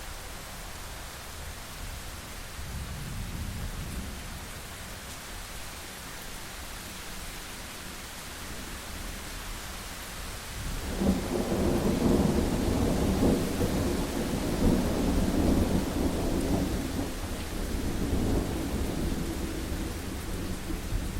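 Thunderstorm: steady rain hissing, then a roll of thunder breaks in about halfway and rumbles on, slowly fading.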